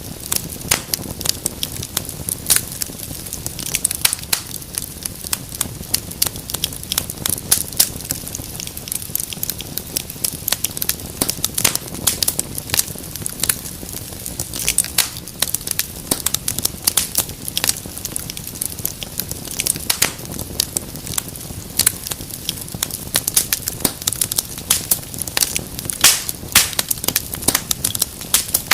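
Wood fire crackling: frequent irregular sharp pops and snaps over a steady low rumble of burning logs.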